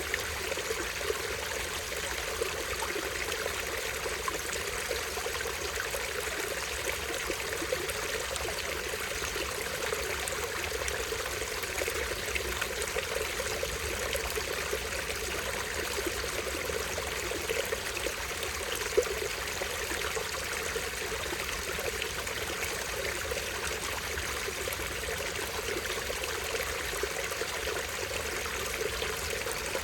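A small stream running steadily as a tiny waterfall, an even rush of water with no change, and a single faint click about nineteen seconds in.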